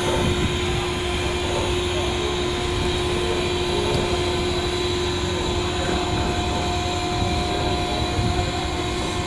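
Steady drone of a ferry's engines and machinery: a low rumble under even noise, with a few constant humming tones.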